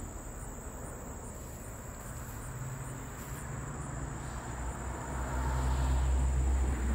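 Steady high-pitched insect chirring, with a low rumble building through the second half.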